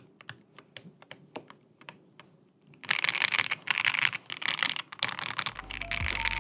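Typing on a Bakeneko 65 aluminium mechanical keyboard with lubed and filmed Tangerine linear switches and polyfill dampening, keys clacking as they bottom out. Scattered keystrokes at first, then a burst of fast, louder typing about three seconds in; music comes in near the end.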